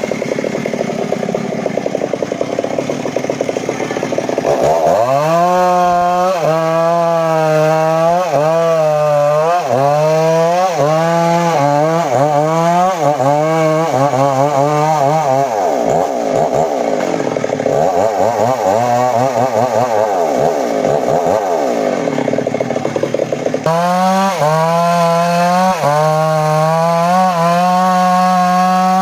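Two-stroke chainsaw cutting teak wood at high revs, its pitch dipping and recovering again and again as the chain bites. For a stretch in the middle the note drops lower and swells up and down before the high revs return.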